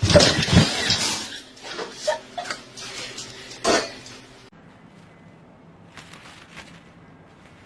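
A clatter of hard objects knocking together for about four seconds, like dishes or utensils being knocked about, then a few faint clicks.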